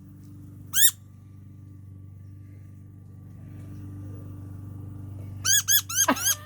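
Young varied thrush giving high, squeaky distress calls: a single squeak about a second in, then a quick run of squeaks, several a second, near the end. The calls are the sound of a frightened, injured fledgling being handled. A steady low hum sits underneath.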